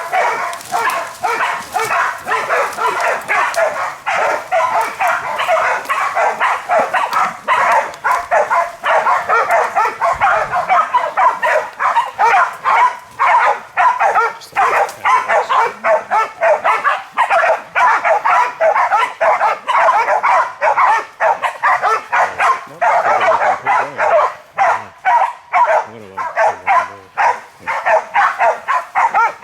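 Pig-hunting bail dogs barking rapidly and without let-up, the sound of dogs holding a feral boar at bay.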